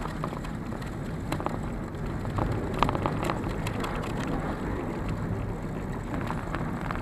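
Steady low rumble of a moving cable-car cabin, with scattered light clicks and rattles.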